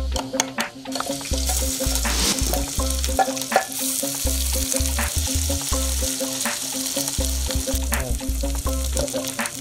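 A few knocks of a wooden pestle in a steel tumbler, then oil sizzling in an iron kadai while it is stirred with a wooden spatula. The sizzle swells about four seconds in as spice paste goes into the hot oil. Background music with a steady bass beat runs underneath.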